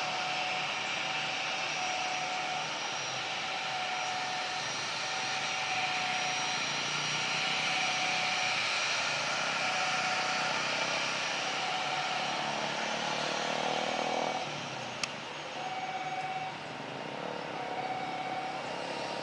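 Jet airliner taking off at close range: a wide jet-engine roar that builds to its loudest midway, then eases off in the last few seconds.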